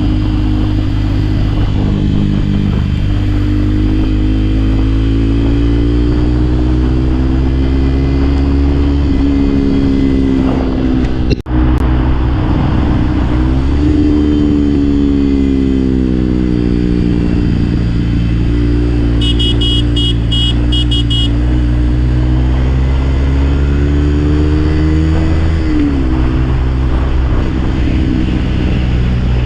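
Motorcycle engine running while under way, its pitch gliding up and down several times with the throttle. The sound drops out for an instant near the middle, and a short run of high beeps sounds about two-thirds of the way through.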